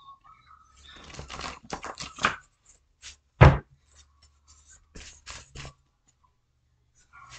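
Tarot cards being shuffled and handled: a quick run of card snaps and clicks, a single loud thump about three and a half seconds in, then a few more clicks.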